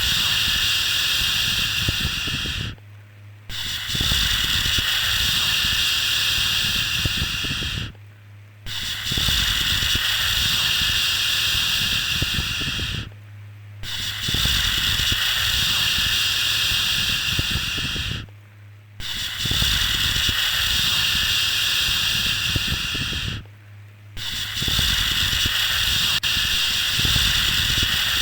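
A 'shhh' shushing sound for soothing a baby: long hissing shushes of about four and a half seconds, each followed by a brief pause, repeating about every five seconds.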